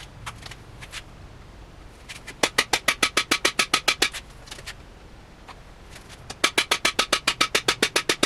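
Hammer rapping the bar of a cam bearing installation tool to drive a cam bearing into the bore of a Ford 292 Y-block engine: two runs of quick, even, ringing metal strikes, the first about two seconds in and the second near the end.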